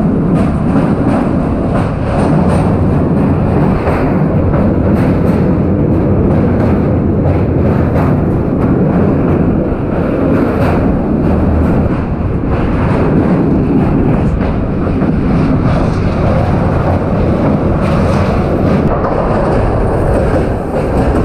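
Indian express train's sleeper coach running at speed across a steel truss bridge. A loud, steady rumble of wheels on rails is heard from the open doorway, with faint irregular clicks throughout.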